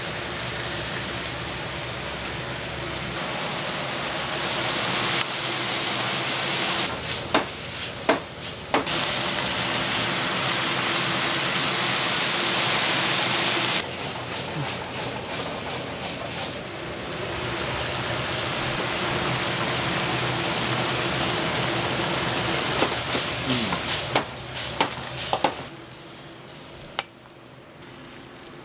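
Garlic ponzu stir-fry sizzling in a frying pan as it is stirred. The sizzle swells to its loudest through the middle, with a few sharp clanks of a utensil on the pan about a quarter of the way in and again toward the end, then dies down shortly before the end.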